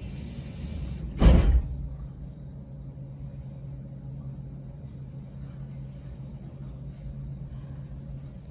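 A door shuts with one heavy thump about a second in, abruptly cutting off a steady hiss; after it a steady low hum carries on.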